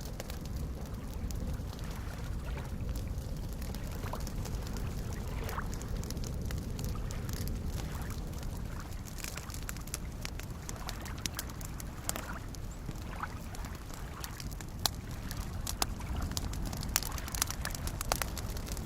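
Campfire crackling, with sharp pops scattered through and growing more frequent in the second half, over soft lake waves lapping and sloshing in a steady wash.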